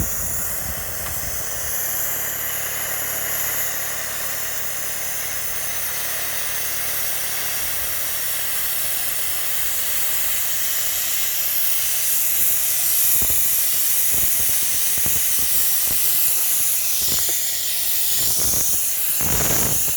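Steady, loud rushing hiss of air from dryer vent cleaning equipment, with a low motor hum underneath. Several short knocks come in the last few seconds.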